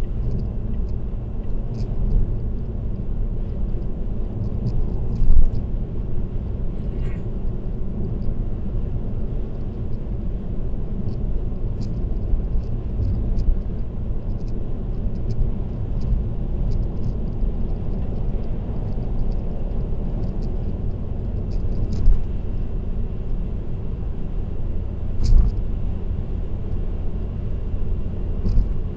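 Steady low road rumble of a car cruising on an expressway, picked up by a dashcam, with scattered faint ticks and a few brief thumps.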